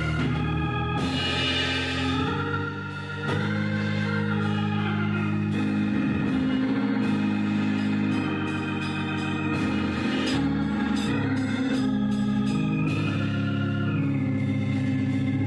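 Organ playing sustained chords that change every few seconds, with a brief drop in loudness about three seconds in.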